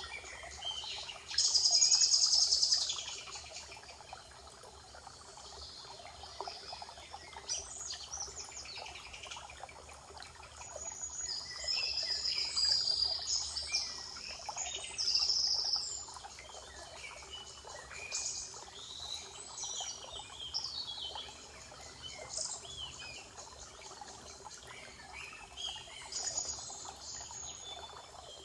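Several songbirds singing in a spring forest, overlapping phrases and chirps over a faint steady background hiss, with the loudest burst of song about two seconds in.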